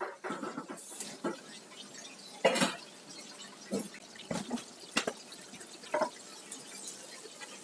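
Kitchen cookware sounds: a series of short knocks and clinks with some liquid sounds, the loudest knock about two and a half seconds in.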